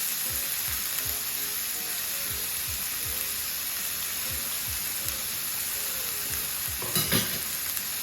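Whole pressure-cooked chicken frying in a pan with a little coconut oil: a steady sizzle that starts suddenly and grows briefly louder about seven seconds in.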